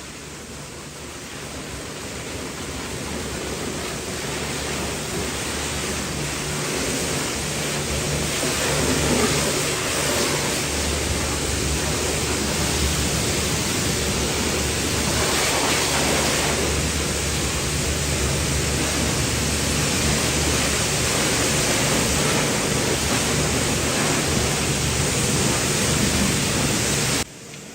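Pressure washer spraying water: a steady hiss over a low hum, growing louder over the first several seconds, holding steady, then cutting off abruptly near the end.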